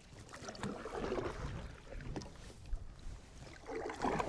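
Canoe paddle strokes in lake water, splashing and dripping in uneven swishes with small knocks, over a low rumble of wind on the microphone.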